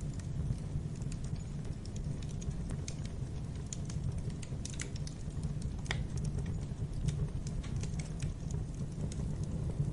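Wood fire crackling in a fireplace: irregular sharp crackles and pops over a steady low rumble of the burning fire.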